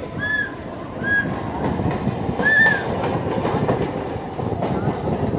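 Suburban EMU local train running over the track, heard from its open doorway: a steady rumble and clatter of wheels on rails, with three short high squeals near the start, about a second in and about two and a half seconds in.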